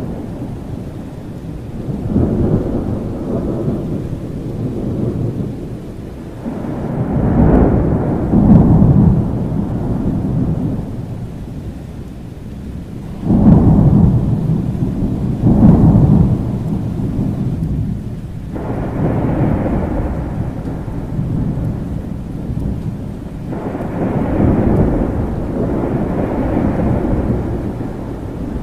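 Thunderstorm: rolling thunder that rumbles on continuously, building in repeated low swells, with sharper peals about thirteen and sixteen seconds in, over steady rain.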